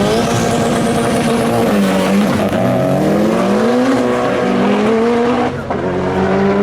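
Race car engine running hard at high revs, its pitch wavering up and down, with a brief drop about five and a half seconds in.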